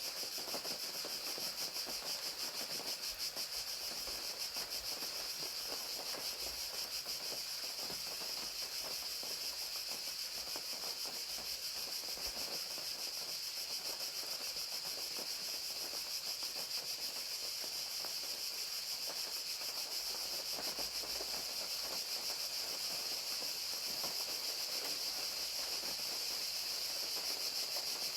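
Crickets chirping in a steady high-pitched chorus of rapid pulses, over the patter and hiss of falling rain.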